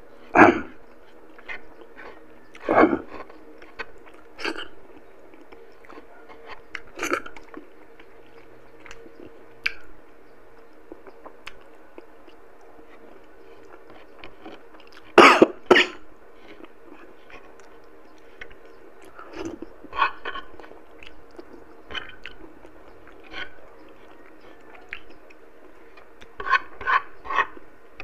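Close-up chewing of saucy braised pork eaten by hand, with wet mouth sounds and a scatter of short, sharper sounds; the loudest are a close pair about fifteen seconds in and a quick run of several near the end.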